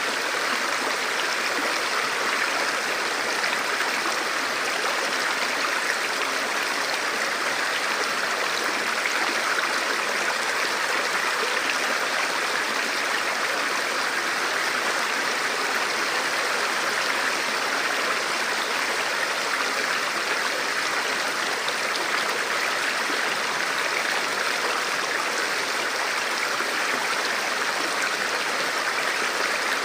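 Forest river or stream flowing steadily over rocks: a continuous, even rush of water.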